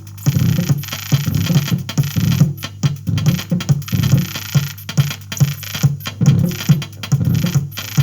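Strange electronic sounds from a mixing desk fed through odd connections: irregular low pulsing over a steady hum, with crackling clicks scattered throughout. The uploader reports a problem with the desk's first channel.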